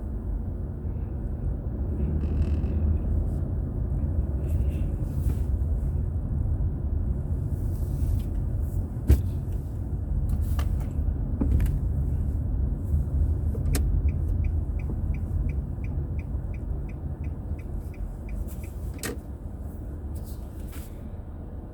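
Car driving in traffic, heard inside the cabin: a steady low road and engine rumble. In the second half comes an even ticking of about three clicks a second that lasts about five seconds, with a few sharp single clicks along the way.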